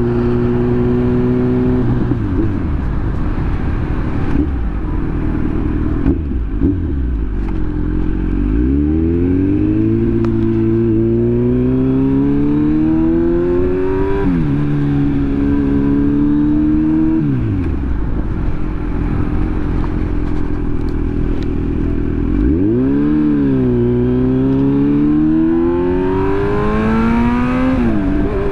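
2022 Kawasaki Z900's inline-four engine on the move, revs climbing and falling again and again as the bike accelerates, shifts gear and slows.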